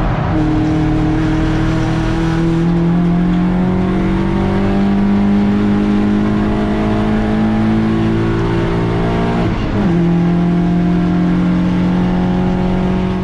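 BMW 116i race car's engine pulling hard, its note climbing slowly for several seconds. About ten seconds in there is a quick break and the note drops to a lower pitch, as with an upshift, then holds steady.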